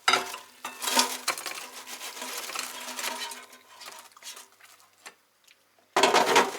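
Kitchenware clattering: sharp knocks of metal or crockery that ring on for a few seconds, then a louder burst of clatter near the end.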